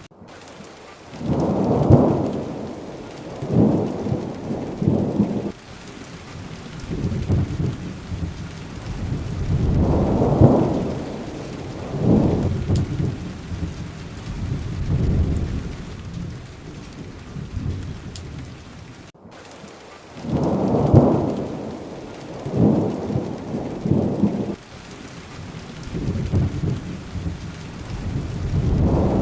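Thunderstorm: steady rain with low rolling thunder rumbles that swell and fade every couple of seconds. The sound cuts out for an instant about two-thirds of the way through.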